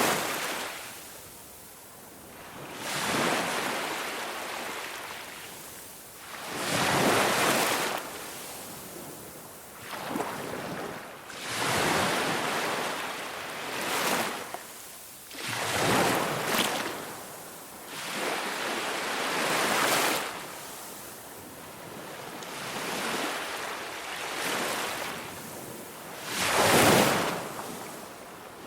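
Ocean waves breaking on a beach, surging and washing back in repeated swells every few seconds, with wind on the microphone.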